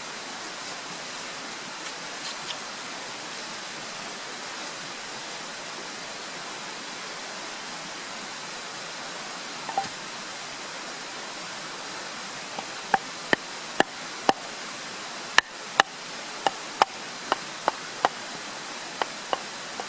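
A steady rushing outdoor noise, then from about two-thirds of the way in a run of sharp knocks, roughly one or two a second, much louder than the background.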